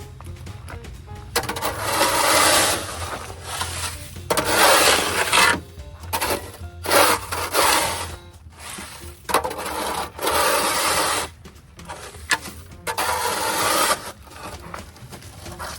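A series of rough scraping or rubbing strokes, each about a second long with short pauses between, over a steady low hum.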